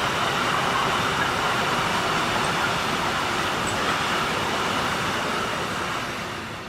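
Freight train rolling past, a steady noisy rumble of wagon wheels on the rails that starts to fade near the end.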